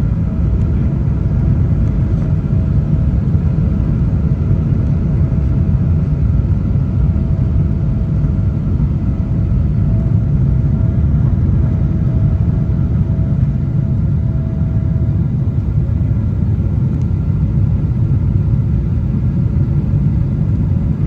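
Boeing 777 cabin noise: a loud, steady rumble of engines and airflow heard from inside the passenger cabin, with a faint wavering hum held above it.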